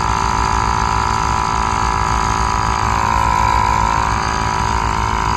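Small air compressor running steadily with a constant whine over a fast rattle, pumping up a trailer tire that is taking air.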